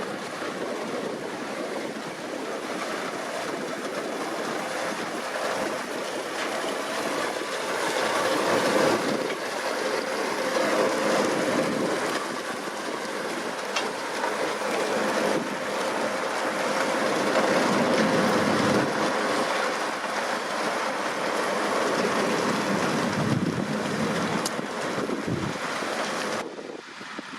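Deutz-Fahr 6150.4 tractor and potato-harvesting machinery working: a steady engine hum under continuous clattering and rattling, which falls away suddenly just before the end.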